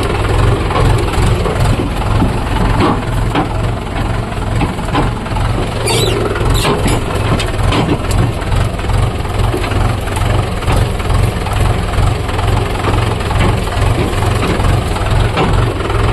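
Tractor diesel engine running steadily with a pulsing low rumble, with a few sharp clicks or rattles about six to seven seconds in.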